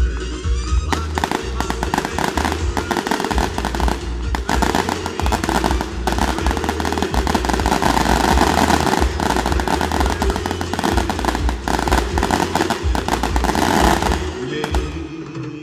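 Fireworks barrage: a dense run of rapid bangs and crackles starts about a second in and stops shortly before the end, over music.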